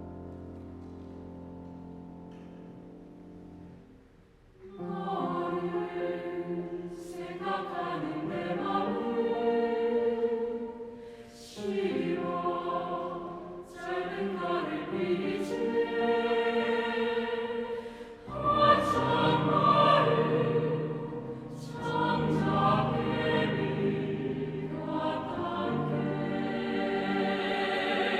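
Choir singing a Korean choral piece with piano accompaniment. A soft piano chord fades away first, and the choir comes in about five seconds in, singing in phrases with brief breaks between them.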